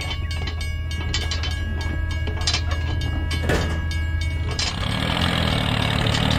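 Train running on rails, a clattering rhythm of wheel clicks over a steady rumble, growing louder about five seconds in. It is most likely a dubbed sound effect for the toy railway crossing.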